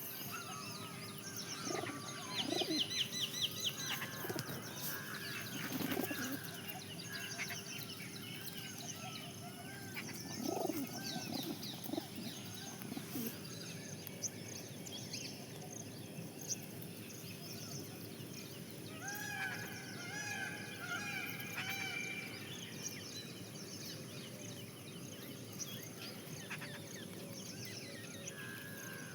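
Parrots calling and chattering, with squawks, whistles and quick chirps. There is a fast run of repeated chirps a couple of seconds in and a string of calls around twenty seconds in, over a faint steady hum.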